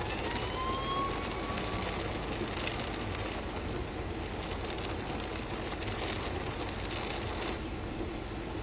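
Strong storm wind blowing steadily with a deep rumble, and a thin whistle rising in pitch over the first two seconds.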